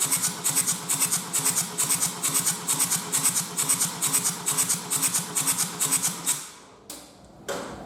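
Kia 1.7 CRDi D4FD four-cylinder diesel engine idling on a test stand with a rhythmic, pulsing clatter, then shut off about six seconds in. Two short knocks follow near the end.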